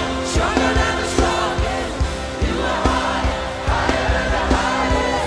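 Gospel music: a choir singing over a steady drum beat.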